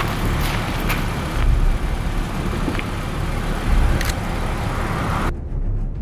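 Steady low rumble with a hiss and a few faint clicks, like wind or road noise on an outdoor microphone. About five seconds in the hiss drops away abruptly, leaving only the rumble.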